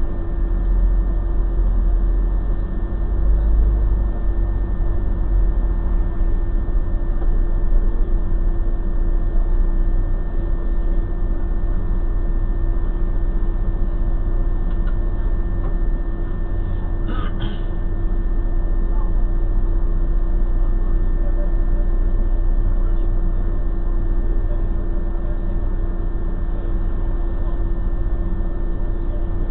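Steady low rumble of a vehicle's idling engine heard from inside its cabin, with a constant hum over it. A brief higher rattle or click comes about seventeen seconds in.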